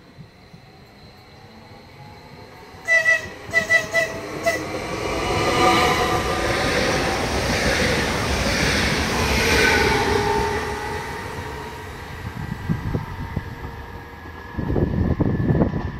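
Stadler FLIRT electric multiple unit sounding about six short horn toots, then its motor whine and wheel noise swelling as it passes close at speed and fading away. Near the end, a burst of low rumbling.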